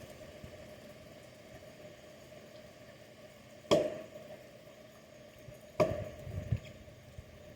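Axe chopping into wood: two sharp strikes about two seconds apart, the second followed by a couple of duller knocks.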